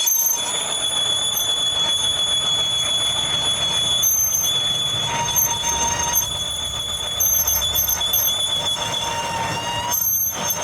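Metalworking machinery running steadily, with several high whining tones over a grinding noise.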